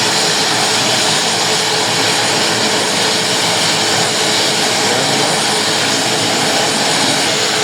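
Large helicopter's engines and rotor running steadily on the ground before takeoff: a loud, even rush with a steady hum.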